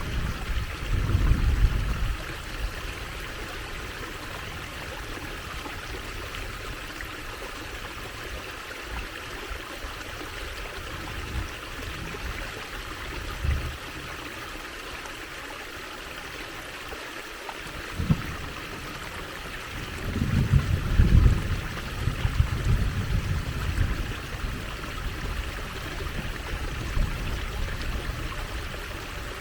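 Water trickling and running steadily over stones in a small stream, with low rumbling swells about a second in and again about two-thirds of the way through.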